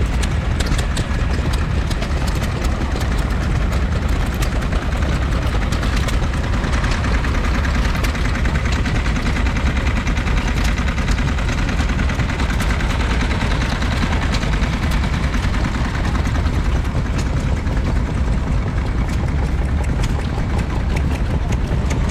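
Vintage stationary engine running steadily at a constant speed, with faint light ticks over its low running note.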